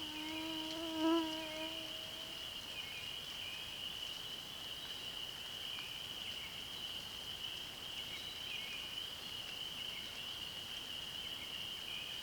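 A steady, high-pitched chorus of calling animals, with faint short calls scattered through it. In the first couple of seconds a low humming tone with overtones swells, peaks about a second in, and fades.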